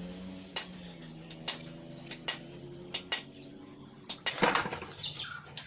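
Metal tools and parts clinking and knocking against each other in irregular sharp taps, with a louder rattle about four seconds in, over a steady low hum.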